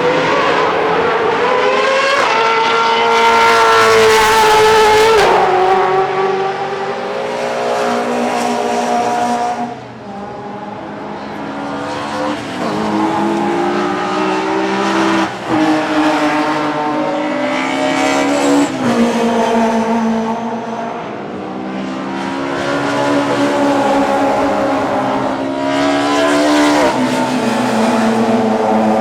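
Classic DTM racing cars accelerating past at full throttle, several in succession. Each engine note climbs in pitch and drops sharply at every upshift, with a brief lull about ten seconds in.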